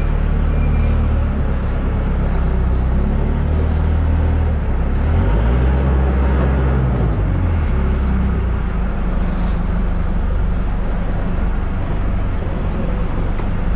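Engine of a farm loader with pallet forks running steadily while it handles crates of seed potatoes, its note shifting around the middle. A reversing beeper sounds briefly near the start and again at the very end.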